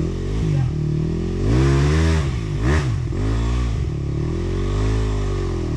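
Sherco 300cc two-stroke enduro motorcycle engine revving up and down on the throttle while riding off-road, its pitch rising and falling several times.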